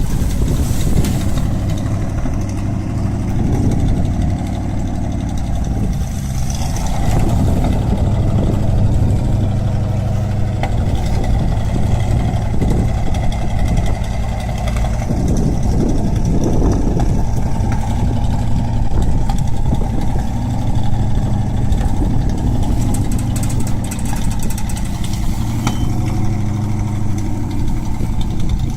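Engine of a large wood chipper running steadily, its level swelling and easing a little as the load changes.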